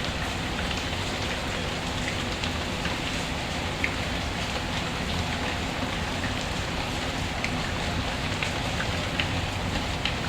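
Steady rain falling, an even hiss with small sharp ticks scattered through it.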